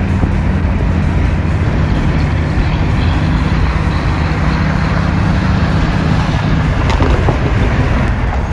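Loud, steady vehicle noise: a low rumble with a hum that stops about seven seconds in.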